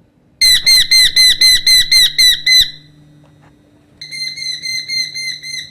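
Young Eurasian hobby calling: a rapid run of loud, high-pitched notes, about five a second, lasting about two seconds. A second, quieter run starts about four seconds in.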